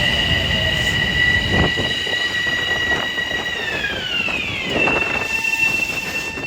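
Metro-North train passing with a high-pitched wheel squeal whose pitch drops together about four seconds in as it goes by.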